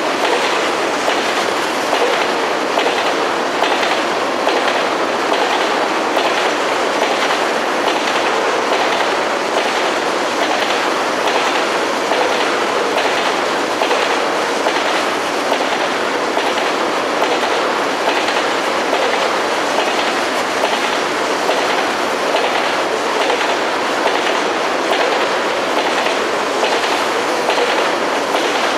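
Freight train cars rolling past steadily, with the wheels clicking over the rail joints in a regular rhythm.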